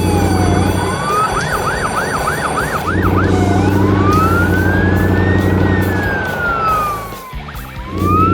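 Cartoon siren sound effect: a falling slide, a quick run of short rising yelps, then long slow wails that rise and fall, over a low buzzing drone that cuts out twice.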